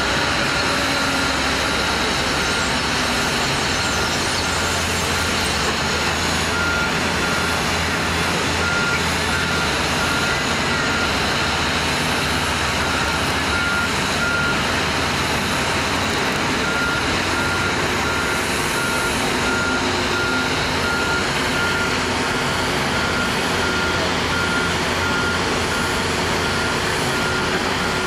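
A vehicle's warning beeper sounds a single-pitched beep over and over at an even pace, typical of a pushback tug or other ground vehicle moving near the aircraft. It stops for about two seconds midway and then starts again. Loud, steady engine noise runs underneath.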